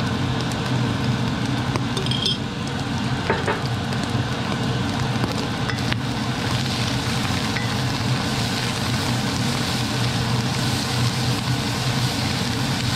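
Pickled cabbage, ginger and garlic sizzling in hot oil in a frying pan while a wooden spatula stirs them, with a couple of light clicks in the first few seconds and the sizzle growing brighter in the second half. A steady low hum runs underneath, from the range hood fan.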